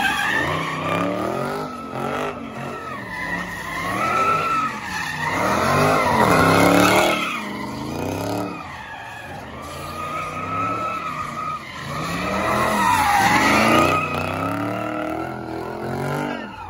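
Dodge Charger SRT V8 revving up and down over and over while its rear tires squeal and spin in a smoky drift.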